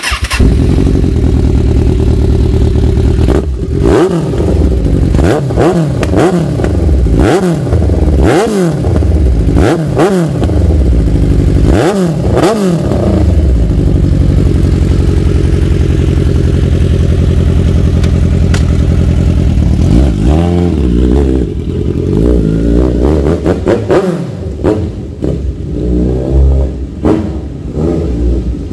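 Kawasaki Z1000 inline-four engine running through a single SC-Project aftermarket exhaust with a 63 mm pipe, loud, being revved in a series of sharp throttle blips. It settles to a steady run in the middle, then comes another run of blips near the end.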